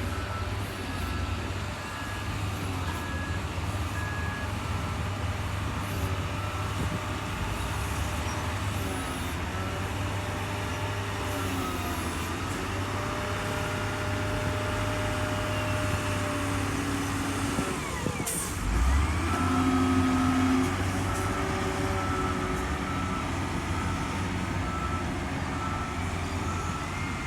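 Heavy diesel construction machine, such as a bulldozer, running steadily, with a reversing alarm beeping on and off near the start and through the last third. Its engine surges louder about two-thirds through.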